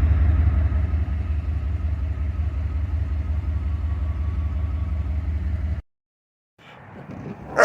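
Pickup truck engine idling steadily with a low, even rumble. It stops abruptly about six seconds in.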